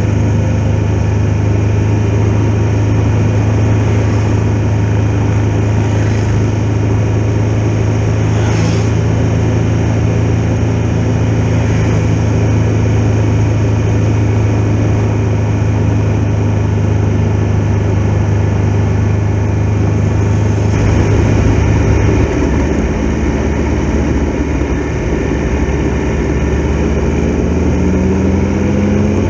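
Triumph Tiger Explorer XRx's three-cylinder engine running at a steady cruising pace on the move, recorded on the bike. The engine note drops about 22 seconds in, then rises again near the end as it accelerates.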